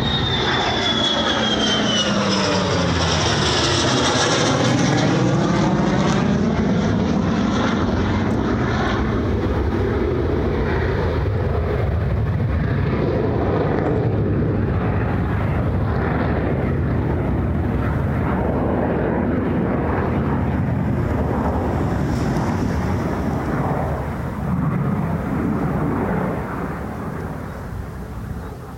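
F-35 Lightning II's single F135 afterburning turbofan on a fast, low pass: a high whine falls in pitch over the first two seconds as the jet goes by. Loud, steady jet noise follows and slowly fades over the last few seconds as it recedes.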